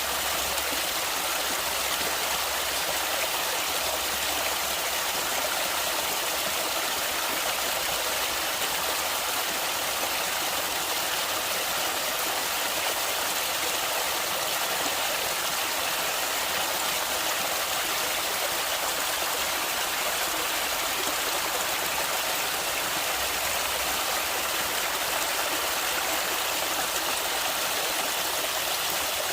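Natural stream water flowing steadily: an even, unbroken rush, heaviest in the higher range, with no pauses or changes.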